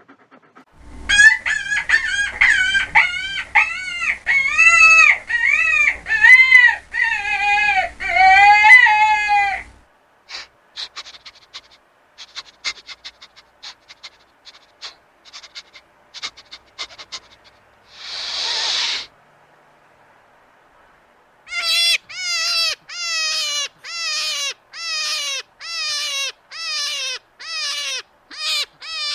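Animal calls: a run of loud, rising-and-falling pitched calls for about nine seconds, then a scatter of soft clicks and a short hiss, and near the end a quick series of short falling calls, about two a second.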